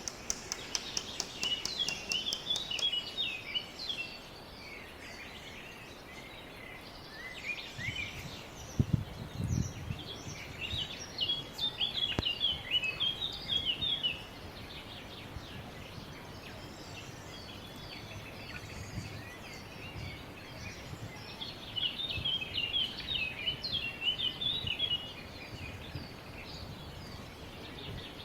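A small songbird singing in three bouts of rapid twittering, chattering notes, each a few seconds long, over steady outdoor background noise. A low thump sounds about nine seconds in.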